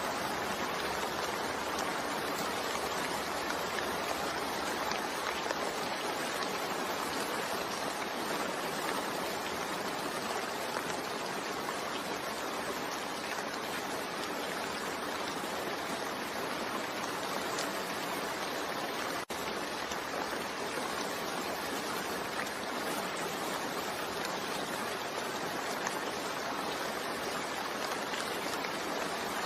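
Steady, gentle rain falling as an even hiss, with a momentary gap in the sound about two-thirds of the way through.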